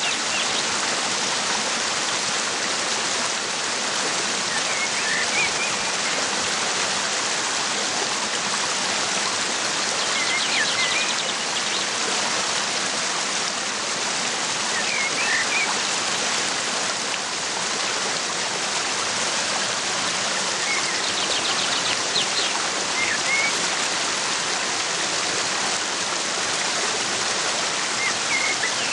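Waterfall rushing steadily, with small birds chirping faintly every few seconds and a couple of quick trills about ten seconds in and again past the twenty-second mark.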